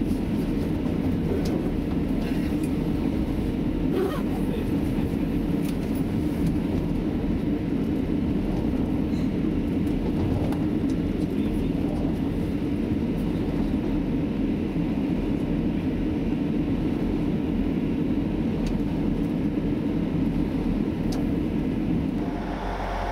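Steady running noise heard inside a Class 175 diesel multiple unit: a low rumble of wheels on rail, with a few faint clicks. It breaks off shortly before the end.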